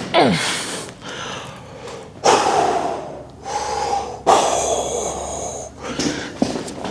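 A weightlifter's hard, forced breathing: four loud, drawn-out exhalations, some with a strained voice in them, as he pushes out reps at maximum effort on the dumbbell shoulder press.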